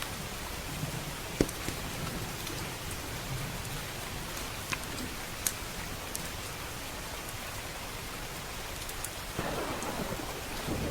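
Steady rain with a few sharp crackles from a wood fire, and a rumble of thunder swelling near the end.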